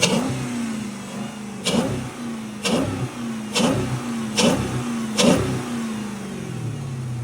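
Dodge HEMI V8 revved in six quick throttle blips, about one a second, each starting with a sharp hit and the engine speed then dropping back before the next; after the last blip the engine settles toward idle.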